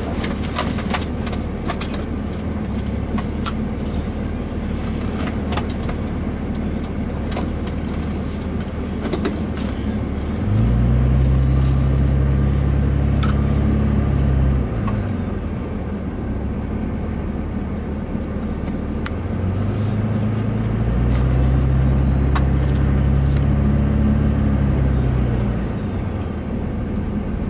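Car engine and road noise while driving. Twice the engine pulls harder: its low hum rises, holds for a few seconds, then drops back.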